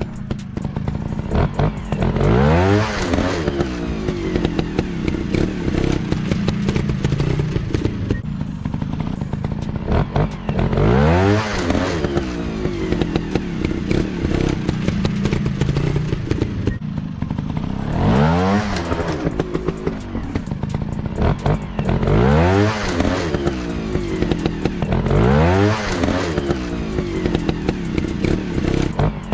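Single-cylinder four-stroke trail bike engines running off-road, revving hard in repeated bursts. Each rev rises sharply in pitch, about six times over the stretch.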